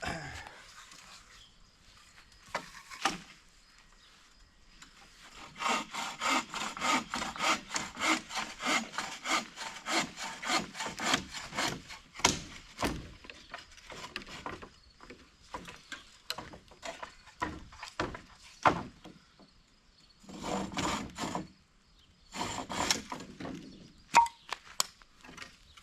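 Hand saw cutting through a limb of dry fallen tree wood in quick back-and-forth strokes, about three or four a second, for several seconds. Slower, scattered strokes follow, then two short bursts of sawing near the end.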